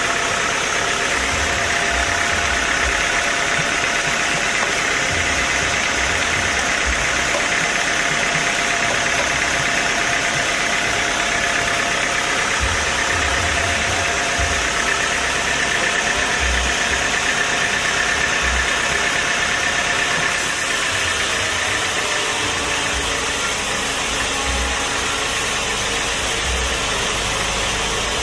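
Machinery running steadily, engine-like, with a high whine that drifts slowly up and down in pitch; the sound changes slightly about two-thirds of the way in.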